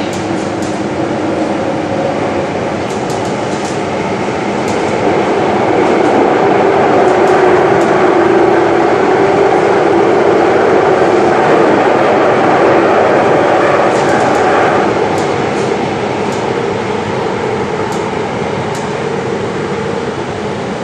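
SMRT metro train running on the track: a steady rumble of wheels with a motor hum, growing louder for several seconds in the middle and then easing off, with occasional light clicks.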